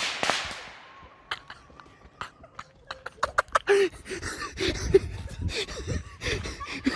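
Firework from a home-made PVC pipe launcher fizzing and crackling, dying away within the first second. Then a scatter of sharp little cracks and pops, and from about halfway, short voice sounds.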